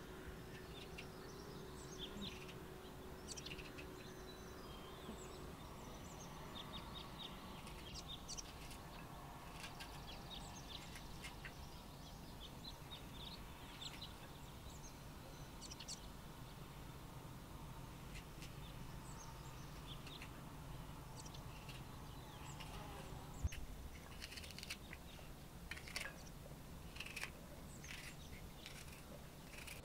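Birds chirping in short, scattered calls over a faint low hum, with one sharp knock about 23 seconds in.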